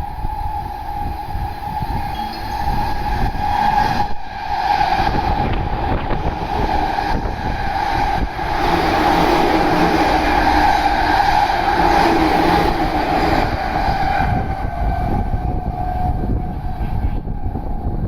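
Electric train passing through the station at speed, its running noise swelling to a peak midway and then easing off, with a steady high whine throughout.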